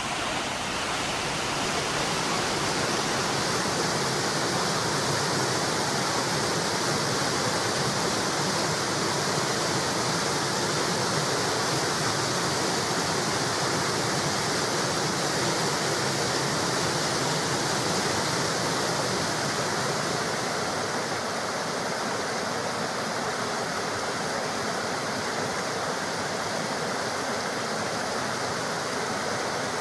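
Steady rush of flowing water, dropping slightly in level about two-thirds of the way through.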